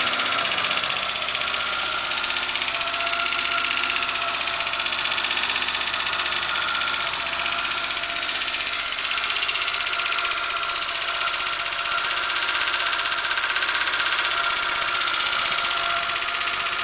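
Porsche 924's four-cylinder engine running steadily, with a fast, even ticking over the engine note: a weird noise that the owner is trying to trace.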